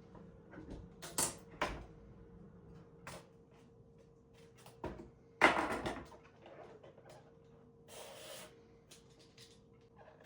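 Household handling sounds: scattered knocks and clicks, like cupboard doors and objects being moved, with one louder clatter about five and a half seconds in and a brief rustle near the end, over a faint steady hum.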